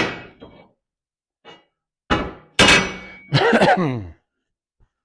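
Pieces of cut steel plate and angle iron clanging against metal: three sharp clangs about two to three seconds in, the last ringing briefly.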